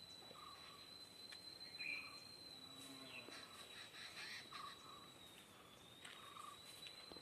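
Faint bird chirps, short call notes repeating every second or so, over a steady high-pitched insect-like drone.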